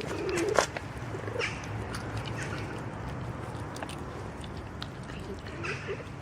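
Cat meowing: a short call right at the start and another near the end, over a steady low rumble, with a sharp click about half a second in.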